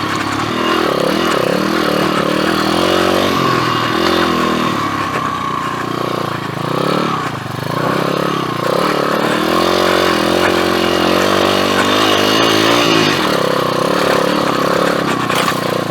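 PitPro 140 pit bike's 140cc four-stroke single-cylinder engine being ridden, its pitch rising and falling repeatedly as the throttle is opened and closed.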